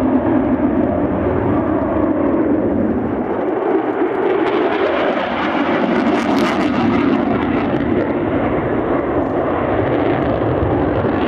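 A military aircraft's engines running loud and steady as a continuous rushing noise, turning harsher and brighter about halfway through.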